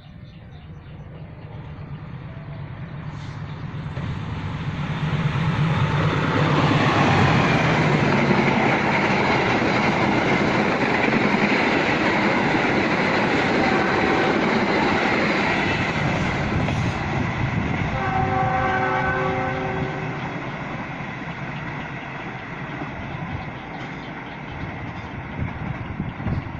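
Passenger train passing: it approaches, grows loud as the locomotive and carriages go by, then fades away. Partway through the fade a horn sounds for about two seconds.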